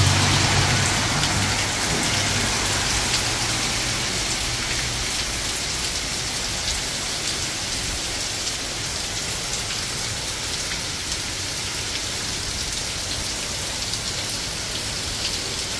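Heavy rain pouring down on pavement and a flooded road, a steady hiss. A car drives through the standing water at the start, its low rumble fading away over the first few seconds.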